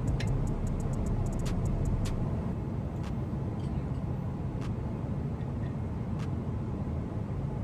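Steady low rumble of a Boeing 777-200's cabin in cruise flight, the engine and airflow noise heard from inside, with scattered light clicks.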